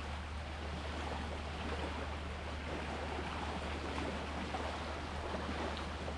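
Sea water washing steadily, without distinct breaking waves, over a constant low hum.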